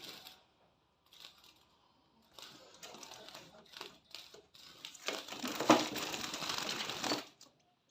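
Rustling and crinkling handling noise with scattered small clicks, getting dense and loud for about two seconds before stopping abruptly near the end.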